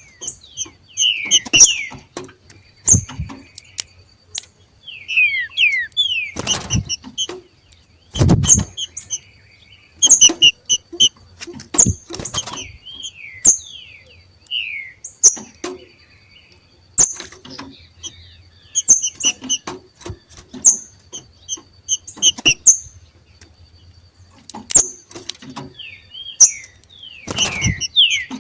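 Two trinca-ferros (green-winged saltators) giving their macheado call: rapid runs of short, high chirps mixed with quick downward-slurred whistled notes, the chatter birds make when coming into breeding condition. Several dull thumps cut in among the calls.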